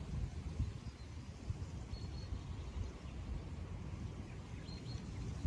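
Low outdoor background rumble, with a small bird giving a short high two-part call about two seconds in and again near the end.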